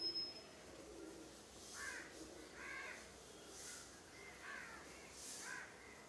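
A bird calling: several short calls roughly a second apart, each arching up and down in pitch.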